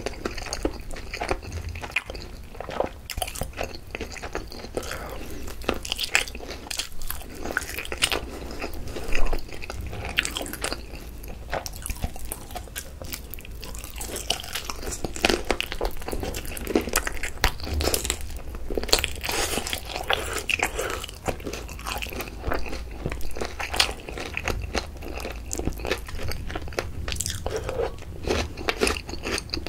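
Close-miked biting and chewing of crispy fried chicken drumsticks in sticky yangnyeom sauce: irregular crunches and chewing clicks, with one louder crunch about nine seconds in.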